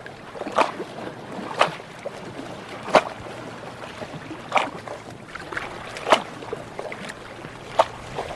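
Ocean water lapping, with a sharp slap of water every second or so over a steady wash.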